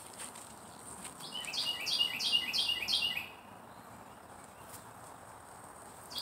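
A songbird singing a quick run of about seven repeated phrases, roughly three a second, starting about a second in and stopping about three seconds in.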